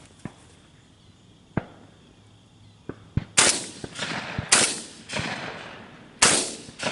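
Shotgun shots at passing doves: a few fainter, sharp pops in the first three seconds, then three loud blasts over about three seconds, each trailing off with a long echo. These are shots that missed, fired behind the bird.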